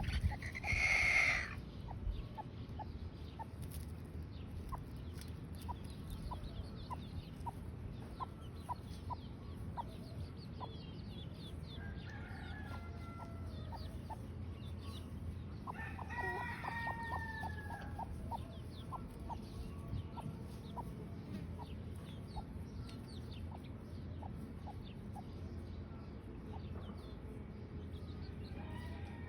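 A flock of chickens with chicks: many short high chick peeps repeat throughout, with clucking. A loud call about a second in, and a couple of longer falling calls around the middle.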